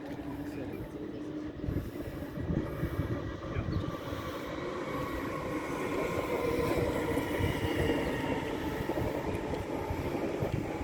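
Train rolling along with a steady rumble that grows louder in the second half, and a faint high whine over it.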